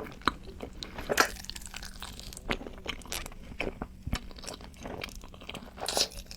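Close-miked eating sounds: chewing, biting and wet mouth smacks on a mouthful of creamy Alfredo pasta, in short irregular clicks.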